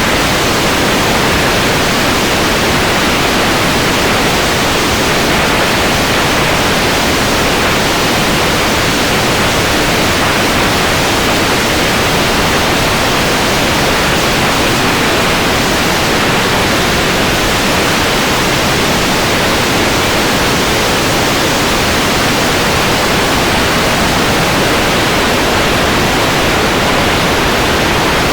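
Steady, unbroken rushing noise of water, with no change or break in level.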